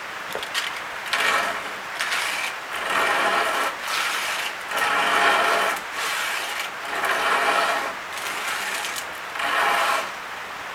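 Small dense hardwood fitting being abraded by hand: about nine even back-and-forth scraping strokes, each lasting about a second.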